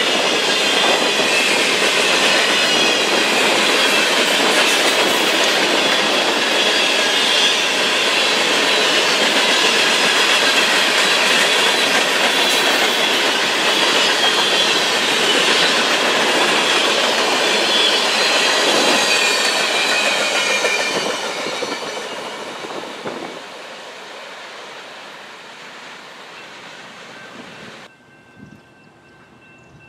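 Freight train cars rolling past on the rails, with clickety-clack and a wavering high wheel squeal. It fades away from about two-thirds of the way through and cuts off sharply near the end.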